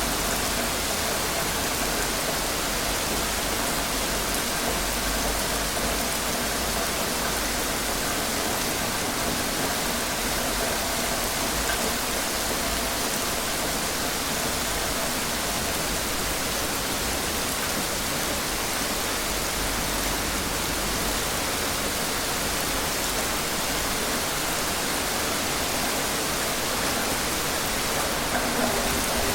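Steady, even rain noise, a dense hiss with no distinct drops or thunder.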